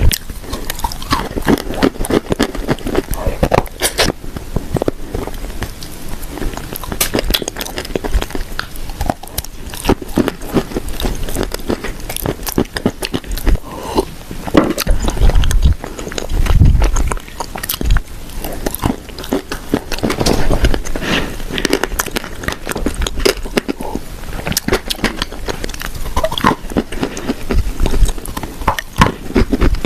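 Close-miked biting and chewing of dry edible clay pieces made as shortbread cookies, with loud, dense crunching and crackling throughout.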